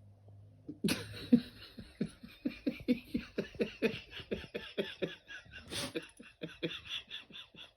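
A person laughing hard in rapid, breathy pulses, about five a second, starting about a second in.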